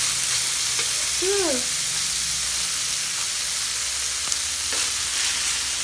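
Pork and liver sizzling steadily in a frying pan as they are stirred with a metal spoon, with a few light taps of the spoon on the pan.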